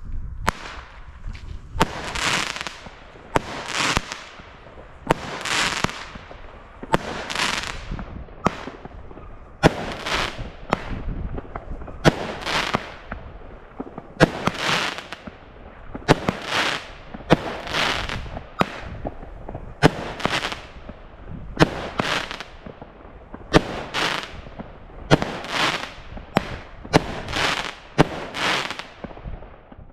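Weco Alligator firework battery firing shot after shot, each a sharp launch pop followed by a short hiss. The shots come about once a second and quicken near the end.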